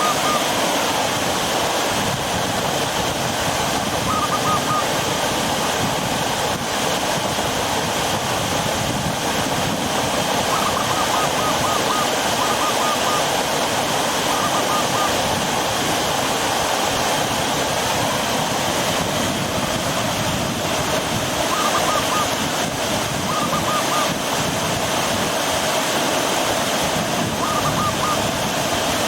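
Steady rush of river water flowing over rocks below a waterfall. A bird's short repeated call notes sound several times over it.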